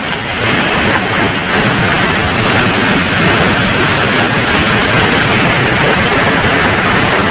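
Heavy rain and strong wind lashing a car, heard from inside the cabin as a loud, dense, steady rush that swells during the first second and then holds.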